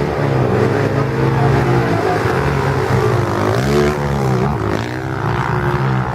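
Racing motorcycle engines running hard, their pitch rising and falling again and again as the bikes rev and go past.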